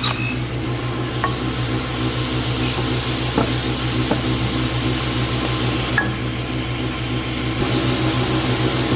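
A woodworking power tool's motor running steadily with a hum and an even hiss, with a few light clicks over it.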